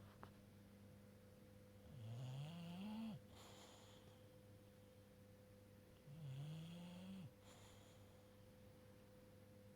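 British bulldog snoring in its sleep: two snores about four seconds apart, each lasting a second or so and rising in pitch as it goes.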